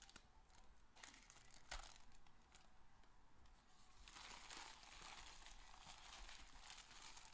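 Faint crinkling and tearing of plastic wrapping on trading-card packs being opened. A couple of sharp clicks come early, then a longer stretch of crinkling in the second half.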